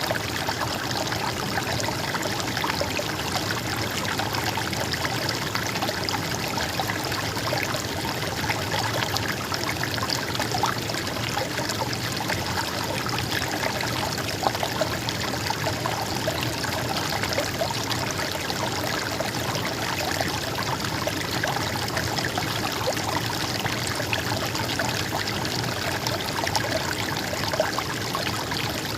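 Stream water trickling and splashing steadily, an even rush without pauses.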